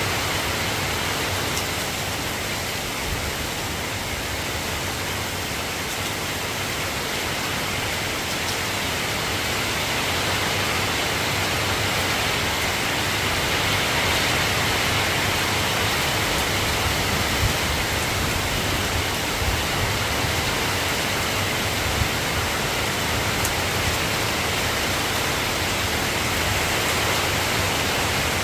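Steady soft rain falling, an even hiss with a few faint ticks of drops.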